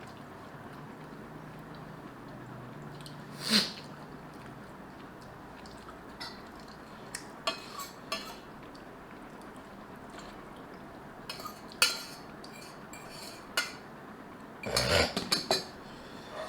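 A person eating noodles: scattered light clicks of utensils against a bowl and a few short slurps. The loudest is a cluster of sounds about 15 seconds in.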